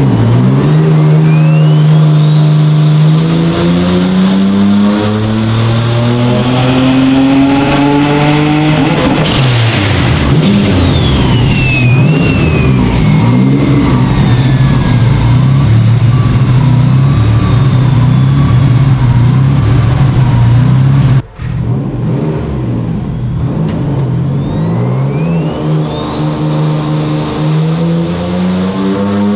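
Big-turbo Subaru EG33 flat-six in an STI making a dyno pull: the engine note climbs steadily for about nine seconds with a high whistle rising above it, then falls away sharply as the throttle closes. It runs on more evenly, and near the end a second climb begins.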